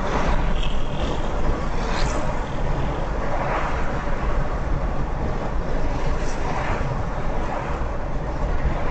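Steady road noise of a car driving at highway speed, with a few faint swells as other traffic passes.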